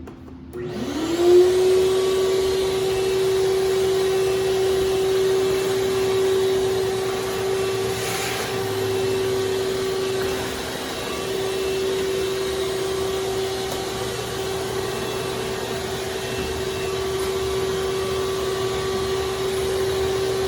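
Shop vacuum switched on about half a second in, its motor whining up to speed within a second and then running steadily.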